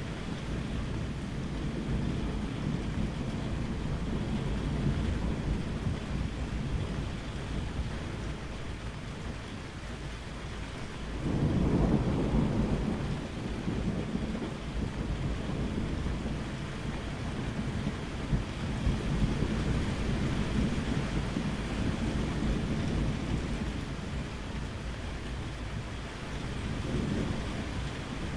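Steady rain with low rolling thunder. A louder clap of thunder breaks in suddenly about eleven seconds in and rumbles away over several seconds, with further quieter rolls later on.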